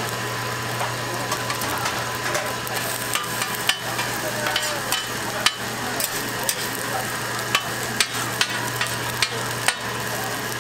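Seafood and green onion pancakes (haemul pajeon) sizzling in oil on a flat griddle, a steady frying hiss over a low hum. Scattered sharp clicks of a metal spatula knocking on the griddle come through the middle and later part.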